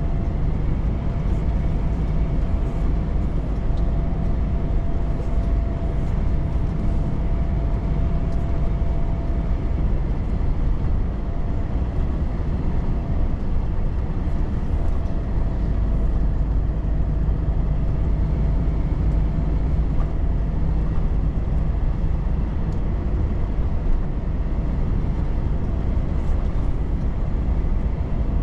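Volvo FH truck driving at a steady speed: a low, even engine drone mixed with road noise, with a faint steady whine over the first half.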